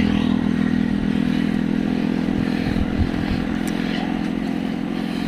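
A motor vehicle engine running steadily, with a short knock about three seconds in.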